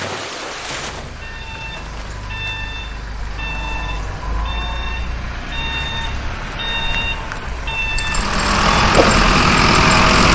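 Heavy-vehicle reversing alarm beeping about once a second, some eight times, over a low engine rumble. About two seconds before the end a louder engine sound takes over.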